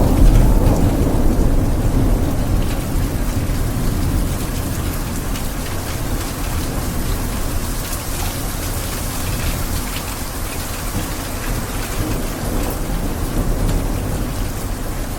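Steady rain falling, with a low rumble of thunder dying away in the first few seconds.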